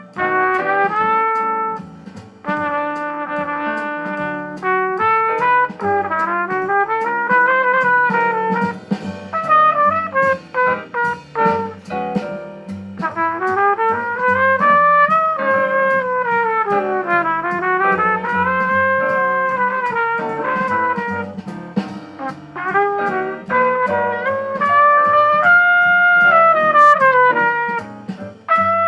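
C trumpet playing a slow jazz ballad melody, with long held notes and smooth slurs between them, over a backing accompaniment.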